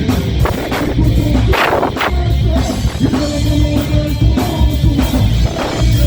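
Rock band playing live: electric guitar, bass and drum kit at full volume, with a cymbal crash about a second and a half in.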